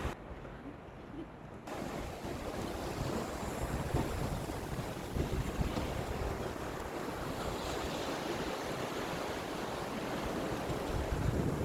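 Sea waves surging and washing, with wind buffeting the microphone. It is duller and quieter for about the first second and a half, then fuller and steady.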